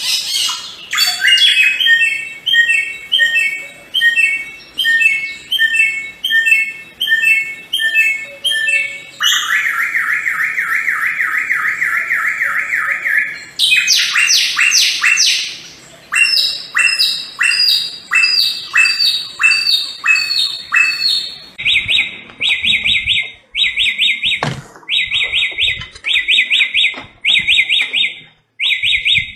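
Samyong song: fast runs of repeated chirping notes that switch abruptly to a new phrase type several times, with a few faint low thumps and a click in the later part.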